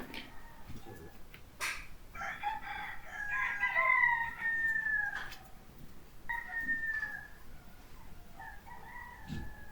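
Rooster crowing: one long drawn-out crow a couple of seconds in, then shorter calls later, with a few sharp clicks between.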